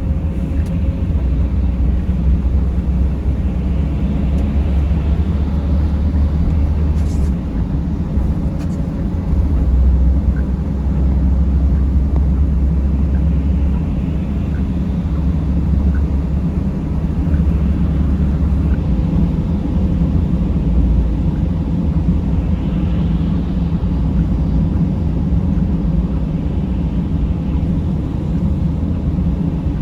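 Mercedes Sprinter van driving: a steady low rumble of engine and road noise.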